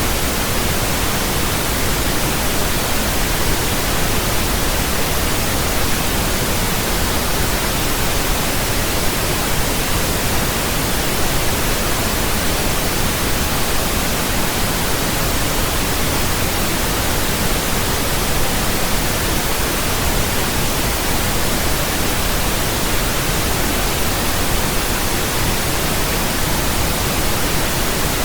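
Steady pink noise: an even, unchanging hiss across the whole range, deeper than white noise.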